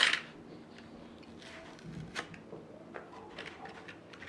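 Small toy packaging being handled and pulled open by a child: a short sharp rustle at the very start, then faint scattered clicks and crinkles.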